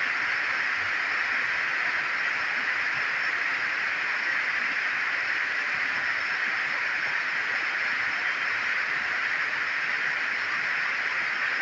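Heavy rain falling, a dense, steady hiss with no let-up.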